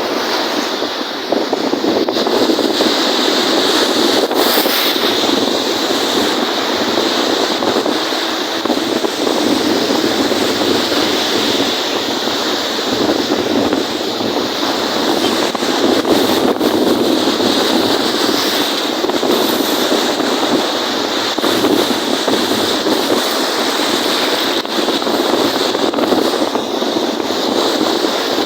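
Wind-driven waves on a lake, a loud, steady rush of choppy water washing and splashing.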